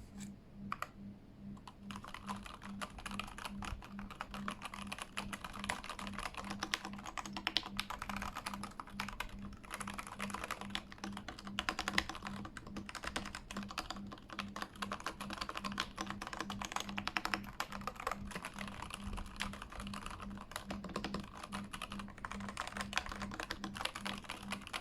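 Keychron K8 mechanical keyboard being typed on fast as a sound test, a dense run of key clicks. Only a couple of keystrokes come in the first two seconds before steady typing takes over.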